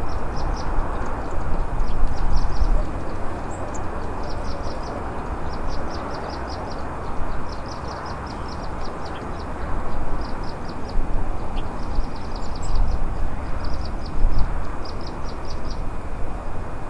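Steady rushing road and wind noise from a car on the move, rising and falling in loudness. Over it, short runs of rapid high-pitched chirps repeat throughout.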